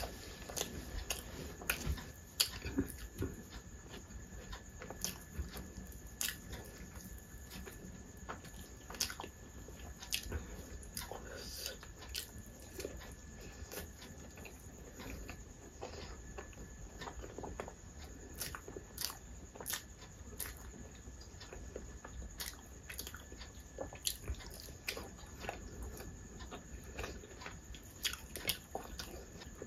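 A person chewing and eating food by hand: a steady run of irregular sharp mouth clicks and smacks, with some crunching.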